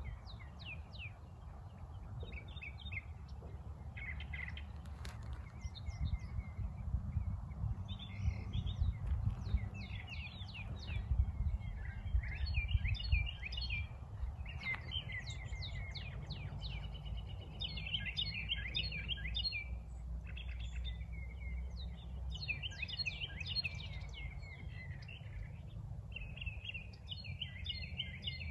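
Several songbirds chirping and trilling in quick clusters of short notes, with a low, unsteady rumble underneath.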